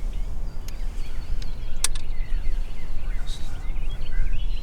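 Wild birds chirping in short, scattered calls over a steady low rumble, with a sharp click about two seconds in.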